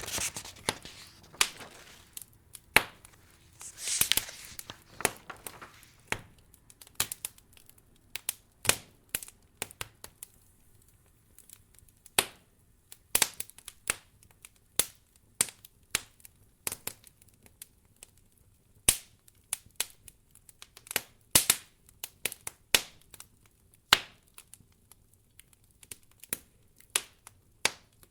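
Wood fire crackling in a fireplace: irregular sharp pops and snaps, several a second, with a couple of brief soft hissing swells in the first few seconds.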